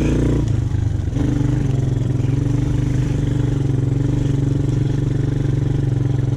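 ATV engine running on the trail, its pitch dipping briefly about half a second in and then holding steady.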